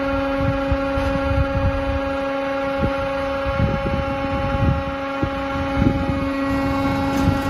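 Firewood processing machine running with a steady hum, with irregular low knocks and clunks of wood pieces moving through it.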